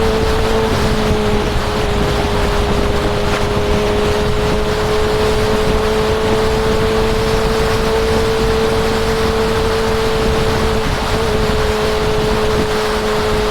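Honda CB650R's inline-four engine holding steady revs at cruising speed, a constant drone over a rush of wind and road noise.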